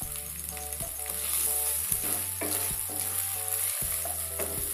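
Freshly grated coconut sizzling in hot oil in a nonstick kadai, stirred with a wooden spatula that scrapes and knocks against the pan every so often.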